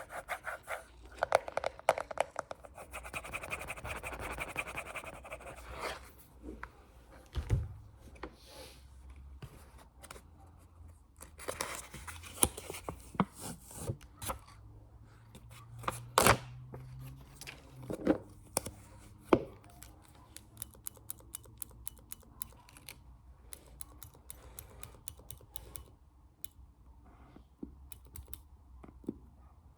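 Fingers and nails tapping and rubbing on objects: dense, fast scratchy tapping for about the first six seconds, then scattered sharper taps and clicks, and over the last third a run of light, evenly spaced taps.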